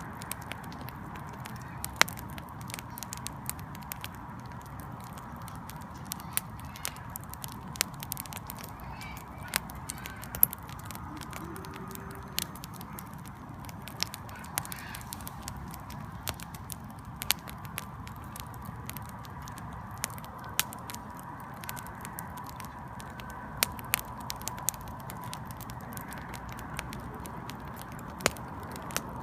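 Wood fire burning: logs crackling with irregular sharp pops, some much louder than others, over a steady low hiss and a faint steady whine.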